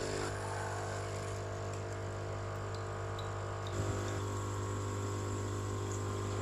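HiBREW H2B coffee machine's pump running in a steady low hum as it pushes water through the machine on a cleaning flush. A faint click a little under four seconds in.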